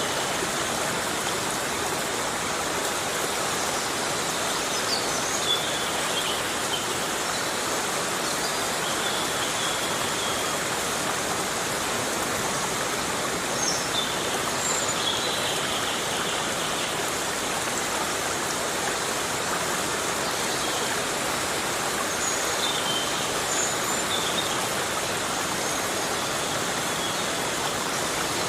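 Heavy rain falling steadily in a forest, an even, unbroken hiss. Now and then faint high chirps sound through it.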